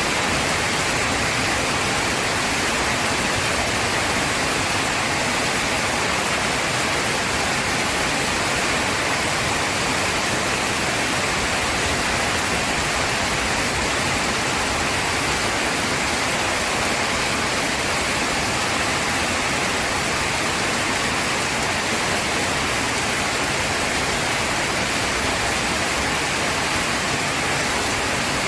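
Heavy rain falling steadily: a dense, even hiss with no let-up and no thunder.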